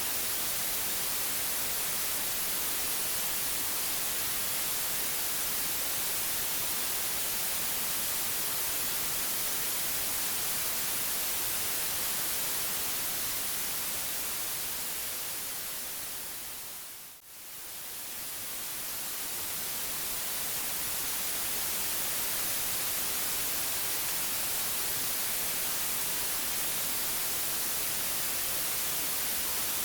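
Steady white noise: an even hiss across the whole range, brightest in the highs. About seventeen seconds in it fades down to a brief low point and swells back up over a few seconds.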